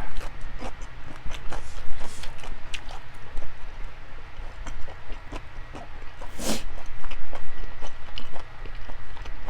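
Close-miked chewing of food: wet mouth clicks and smacks at an irregular pace, over a low steady hum. About six and a half seconds in comes one longer breathy rush.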